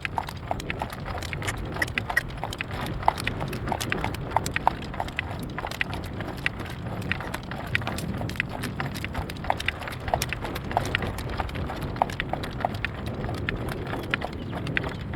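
Harness horse's hooves clip-clopping steadily at a trot while pulling a cart, several hoofbeats a second, over a constant low rumble of wind on the microphone.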